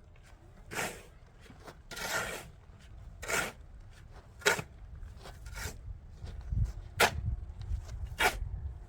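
Hand-tool work noise: an irregular run of short scrapes and knocks, about one a second, with a low thud near the end.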